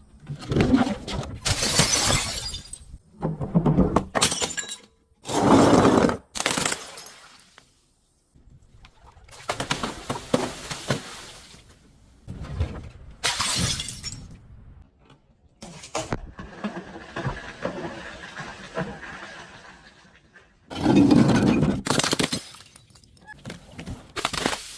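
Glass bottles smashing and shattering, one break after another with crunching in between. A steady hiss runs for a few seconds past the middle.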